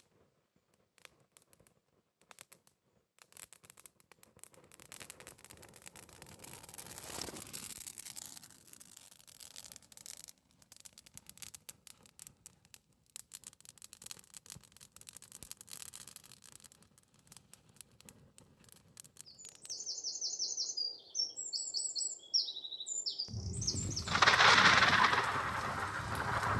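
Birdsong in quick, repeated chirping trills for a few seconds, after a long run of faint crackling clicks. Near the end a sudden loud rush of noise cuts in, like wind on the microphone.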